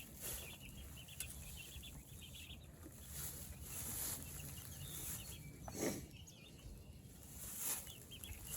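A flock of young meat chickens peeping and clucking, many short high chirps overlapping, with a low rumble and an occasional soft knock.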